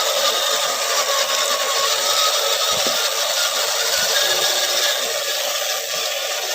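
1/10-scale Axial SCX10 RC crawler's electric motor and geared drivetrain whining steadily as it drives, with a constant high mechanical hum and a little rattle.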